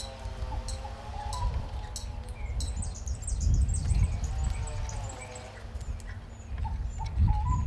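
Birds calling: a warbling call that wavers in pitch, mixed with repeated short high chirps and squeaks, over a low rumble that swells twice.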